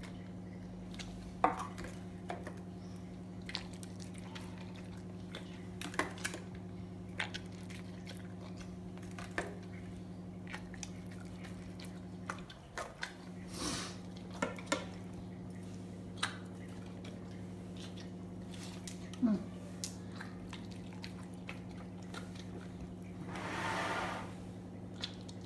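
Dog eating idli: scattered soft chewing clicks and mouth smacks, with a short breathy noise near the end, over a steady electrical hum.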